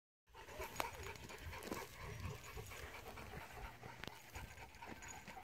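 Dogs panting softly and unevenly, with a couple of sharp clicks.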